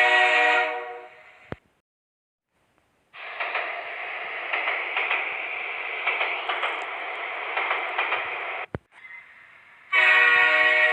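Cartoon train horn sounding a steady chord-like blast that dies away, then after a short gap a steady rushing hiss for about five seconds, and the horn blasts again near the end.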